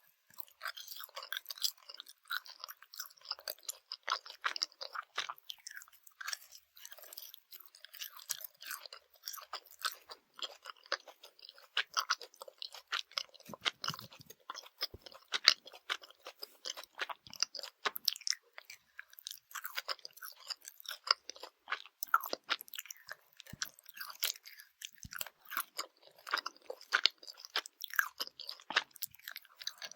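Close-miked chewing of Swedish gummy candy: continuous irregular squishy, crunchy chewing with many small wet clicks.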